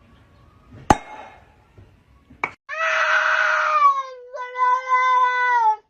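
A cat yowling: two long drawn-out calls, the first sliding down in pitch and the second held nearly level, after a sharp click about a second in. The owner takes it as the tomcat wanting to go outside to female cats.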